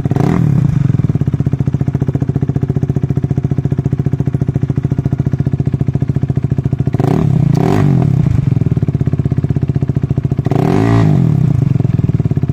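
KTM RC 390's single-cylinder engine running with its exhaust silencer removed, idling with a loud open-pipe pulse. The throttle is blipped once just after the start, twice in quick succession about seven seconds in, and once more near eleven seconds.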